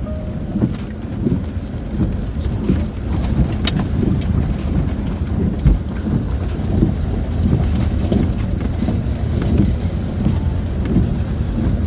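Cabin noise of a Land Rover Discovery 4 crawling over a rocky off-road track: a steady low rumble from the engine and tyres, with uneven jolts and a few sharp knocks as the wheels hit rocks.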